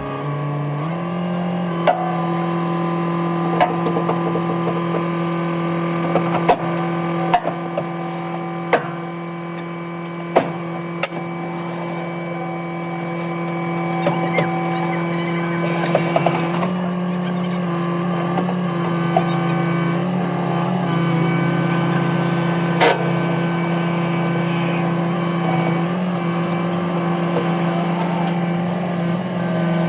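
A machine running with a steady hum, with scattered sharp knocks and clicks over it, about a dozen in all.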